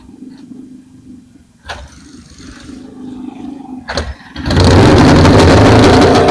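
A motorcycle engine starts about four and a half seconds in and runs very loud. Before that there is a low steady hum with a few sharp clicks.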